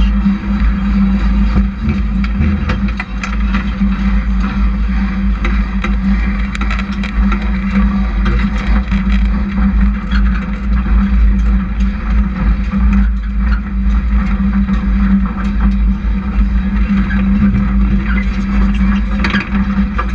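Hobby stock race truck engines running steadily on the speedway track, a constant low engine drone with heavy low rumble throughout.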